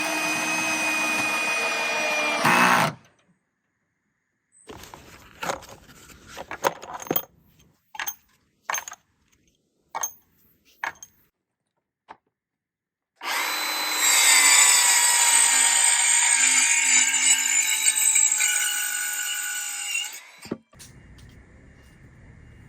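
A power tool motor running at a steady whine for about three seconds, then a series of knocks and clicks, then the tool running again for about seven seconds, easing off slightly in pitch before it stops.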